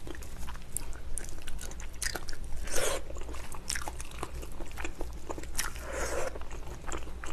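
Close-up chewing of spicy braised ox foot, soft gelatinous meat and tendon, with many small, sharp wet clicks from the mouth.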